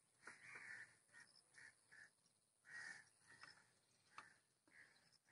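Faint bird calls: short cries repeated several times, with a single sharp click about four seconds in.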